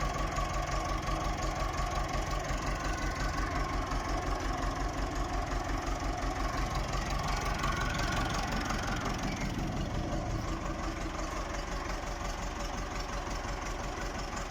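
Massey Ferguson 185 tractor's four-cylinder diesel engine idling steadily with an even, rapid pulse.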